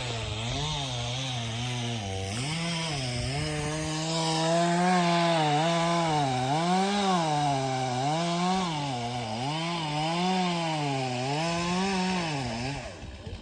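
Chainsaw cutting into the trunk of a large, roughly hundred-year-old tree, its engine pitch dipping and rising again every second or two as it works through the wood. It stops just before the end.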